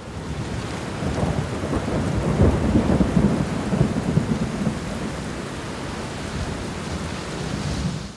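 Heavy rain pouring, with a low rumble of thunder that swells about two to four seconds in. The sound cuts off abruptly at the end.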